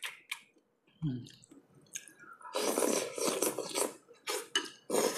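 Close-up wet eating sounds from lobster in sour broth: sharp mouth clicks and smacks, with a longer wet slurp about two and a half seconds in that is the loudest part.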